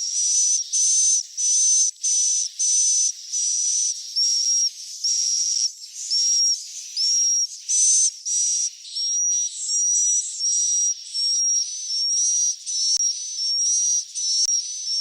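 Swiftlet chicks calling: a rapid run of short, buzzy high-pitched chirps, each with a thin whistled note, repeating about twice a second. This is the swiftlet call recording played to draw swiftlets into nesting houses.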